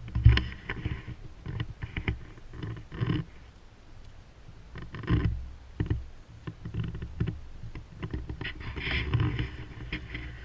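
Sailboat under way in rough water: waves slapping and splashing against the hull, with wind buffeting the microphone in irregular gusts.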